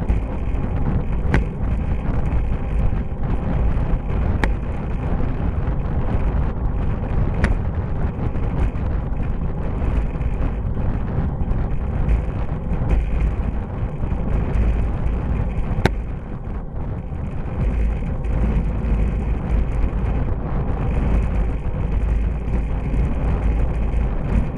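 Wind buffeting the microphone with steady road noise, from a bicycle ridden at speed close behind a pickup truck. A few faint clicks break through.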